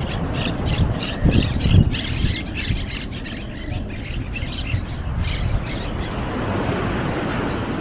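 A flock of birds calling in quick, high, squawking chirps over a steady low rumble of outdoor noise.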